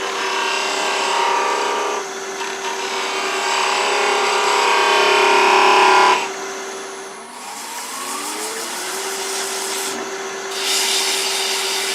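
Wood lathe running with a steady motor hum while a skew chisel cuts a small oak spindle, giving a hissing, scraping cut for about six seconds. After a short break the cutting resumes near the end.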